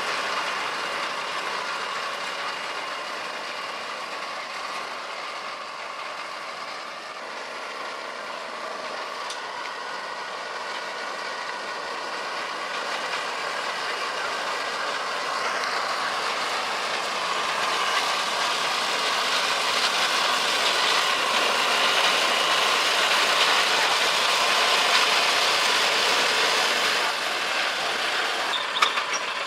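The engine of a repaired Honda three-wheeler running steadily. It grows louder through the second half, with a sharp click near the end.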